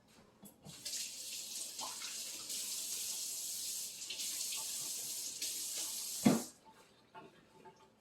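Sink tap running while hands are rinsed under it, the stream breaking a little as the hands move, for about six seconds. It stops with a sharp thump.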